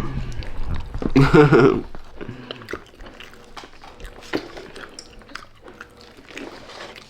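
A person chewing and biting food close to the microphone, with small wet clicks and crunches, and a pleased hummed 'mmm' about a second in.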